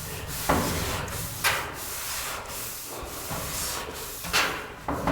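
Hand scrubbing inside a return air duct: continuous rubbing and scraping, with four louder strokes starting sharply and trailing off.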